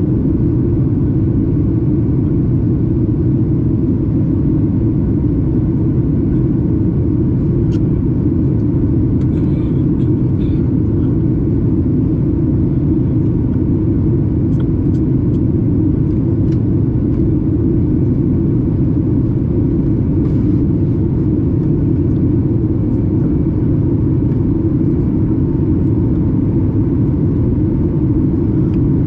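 Steady low roar of a Boeing 737 MAX 8's CFM LEAP-1B engines heard inside the passenger cabin, with a few faint small clicks.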